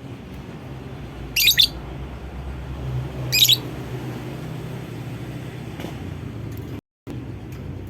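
Lovebird giving two short, shrill calls about two seconds apart, over a steady low background hum. The sound cuts out for a moment near the end.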